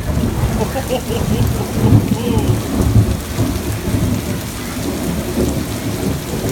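Thunder rumbling over steady heavy rain, with louder swells of rumble about two and three seconds in.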